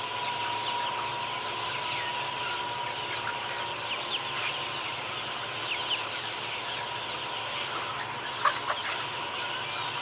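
A flock of chickens clucking, with a busy chorus of many short, high chirps and a faint steady tone underneath. A sharp click sounds about eight and a half seconds in.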